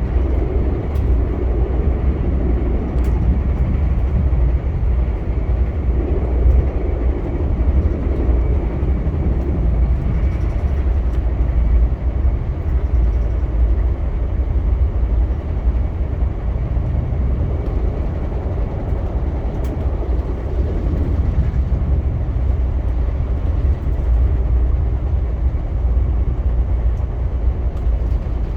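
Via Rail passenger train running along the track: a steady low rumble of wheels and rolling stock, with a few faint ticks.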